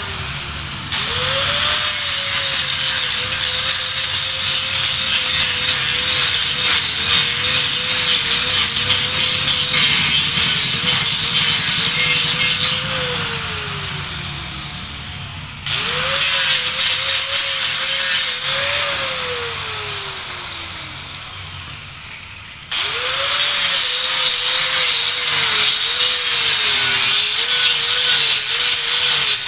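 Electric power tool, most likely a handheld grinder, working the metal of a motorcycle rim in three runs. Each run starts with a spin-up, the motor note wavers as the tool is pressed on, and after the first two runs the motor winds down with a falling whine before starting again.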